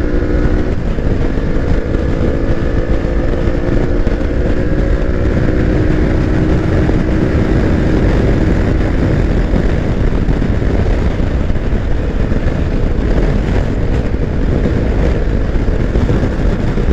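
Kawasaki Versys X-300 parallel-twin motorcycle engine running at a steady cruising note, heard with heavy wind buffeting on the rider's microphone. The engine tone holds level for the first half, then is mostly buried under the wind roar.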